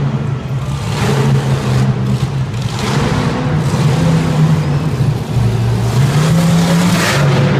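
Monster truck engine running and revving, its pitch rising and falling repeatedly.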